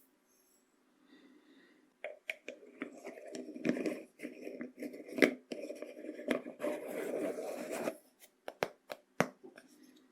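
Coarse cornmeal rubbed and scraped across a bamboo cutting board by hand: a gritty scratching that starts about two seconds in and runs for about six seconds, followed by a few separate sharp ticks.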